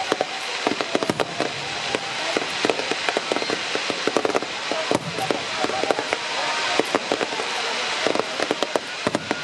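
A fireworks barrage: a dense, irregular run of pops and crackles over a steady hiss.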